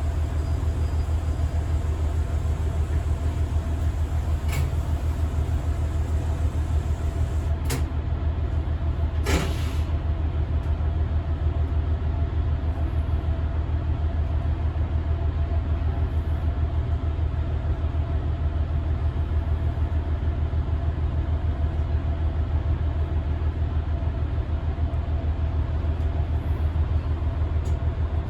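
Diesel railcar running with a steady low rumble, heard from inside near the driver's cab. A couple of light clicks and a short hiss of air come about nine seconds in.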